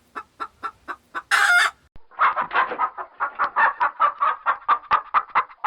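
Chicken clucking in short repeated notes, with one loud squawk about one and a half seconds in, then a quicker, louder run of clucks, about five a second.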